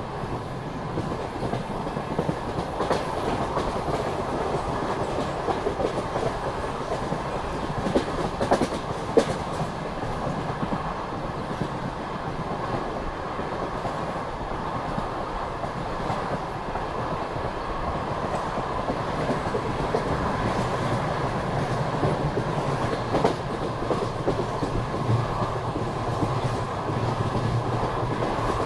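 Passenger train running at speed: a steady rolling rumble with the clickety-clack of wheels over rail joints, and a few sharper knocks about eight and nine seconds in.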